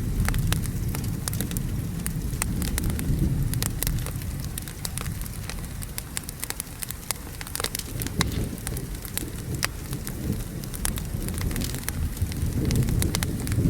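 Wood fire crackling with frequent sharp, irregular pops, over steady rain and a low rolling thunder rumble. The rumble eases off mid-way and swells again near the end.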